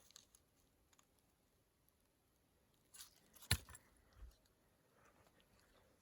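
Near silence, broken by a few faint clicks about three seconds in and one short, sharp knock about half a second later.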